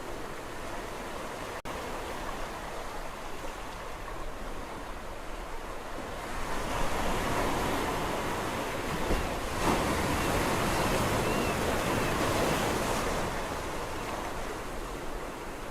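Sea waves washing onto a shore: a steady rush of surf that swells into a louder breaking wave about six seconds in and ebbs away near the end.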